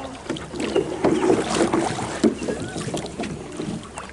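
Canoe paddling on open water: paddle strokes splashing, with sharp knocks of paddles against the hull, and voices chattering in the background.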